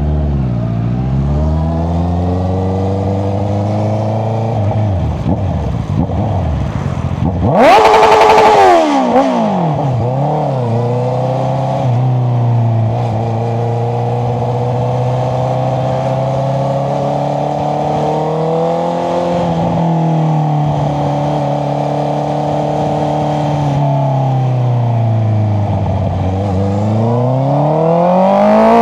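Honda CBR650R inline-four engine running through an Akrapovic exhaust while riding: pitch drops as it slows at first, a loud sharp burst of throttle about eight seconds in, then steady cruising, dipping again and climbing near the end.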